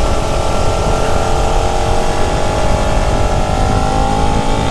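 Suzuki SV650X's 645 cc V-twin engine pulling under acceleration while riding, its note rising steadily through the gear.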